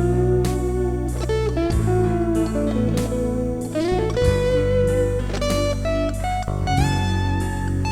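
Slow electric blues band playing an instrumental break: an electric guitar solo with held, bending notes over bass and drums.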